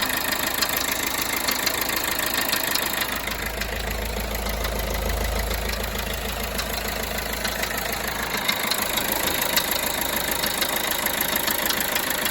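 Peugeot Bipper Tepee's 1.3 HDi four-cylinder turbodiesel idling steadily, with a dense ticking clatter over a low rumble.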